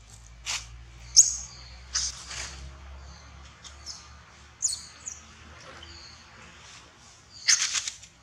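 Birds chirping: a few short, high calls that sweep downward, heard about a second in and again near the middle, among a few brief rustles, the loudest near the end.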